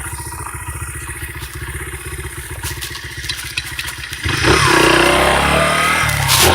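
Dirt bike engine idling with a steady low putter. About four seconds in, much louder music with a shifting pitch cuts in over it.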